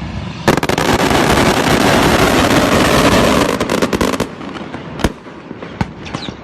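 A dense, rapid run of crackling pops lasting about four seconds, then a few separate sharp cracks.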